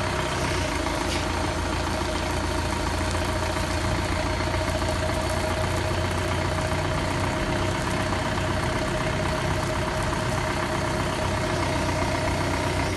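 Lift truck engine running at a steady idle, with a constant whine on top of the low hum.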